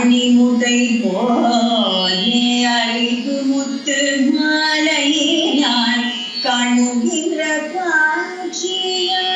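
A female voice singing Carnatic-style devotional music in long, gliding held notes over a steady accompaniment.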